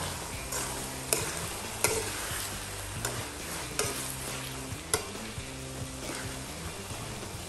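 A metal slotted spoon stirs and scrapes a filling of flaked milkfish with diced potato and carrot as it sizzles in a nonstick wok. The spoon clinks sharply against the pan several times.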